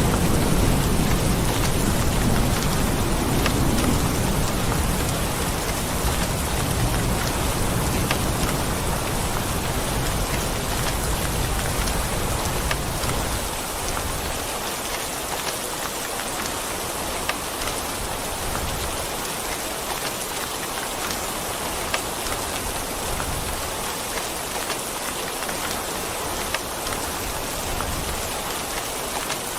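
Steady heavy rain pattering on surfaces, with a few sharper drop ticks. A low rumble of thunder dies away about halfway through, leaving only the rain.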